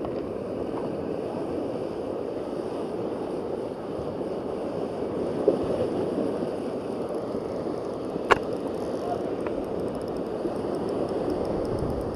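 Steady rush of moving water, with two short sharp clicks, the louder one about eight seconds in.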